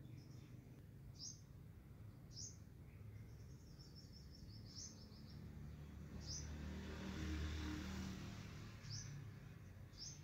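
Faint birds chirping, short high chirps every second or two over a low background hum, with a broad rush of noise swelling and fading in the middle.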